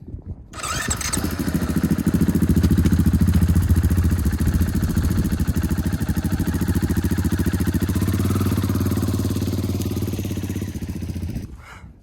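Motorcycle engine running with an even, rapid firing beat; it comes in suddenly about half a second in, holds steady, and cuts off abruptly just before the end.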